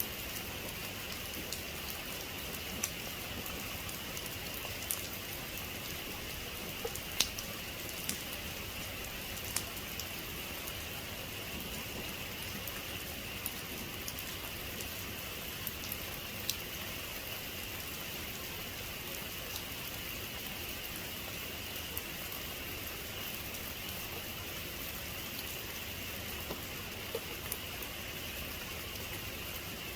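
Heavy rain falling steadily, with scattered sharper drops ticking now and then, the loudest about seven seconds in.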